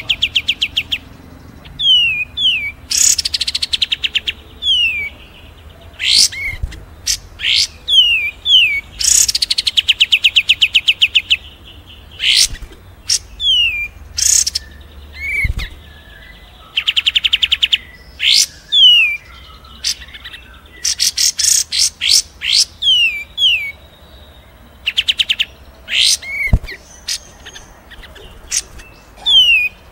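Recorded songs of small songbirds mixed for bird training: kapas tembak (pied triller), cililin and fighting tree sparrow calls. Fast rattling trills of a second or two alternate with short down-slurred whistles and sharp high chirps, repeated over and over.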